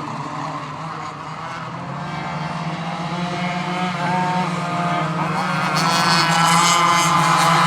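Two-stroke racing go-kart engines on a track, several at once, their pitches rising and falling as they rev. The sound grows steadily louder and is loudest over the last second or two as karts come close.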